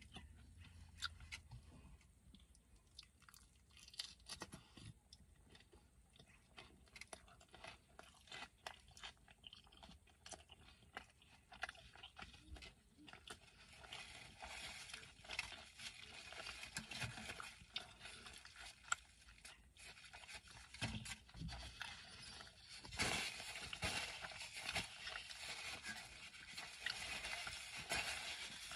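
Close-up chewing of a burrito: soft crunching with wet mouth clicks and smacks. A steady hiss comes in about halfway through.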